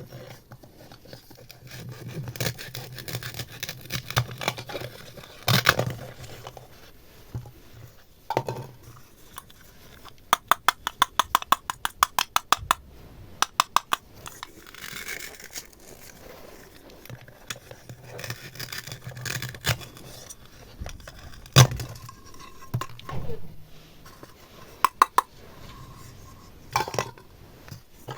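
Small plastic toy kitchen utensils and containers clinking, tapping and scraping, with a quick run of even taps, about eight a second, near the middle and one sharp knock later on.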